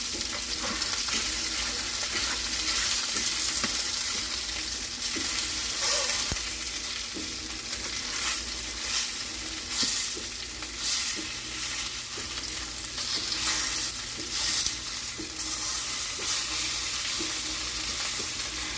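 Country-style beef riblets searing in hot oil in a pan: a steady, dense sizzle, with occasional light knocks against the pan.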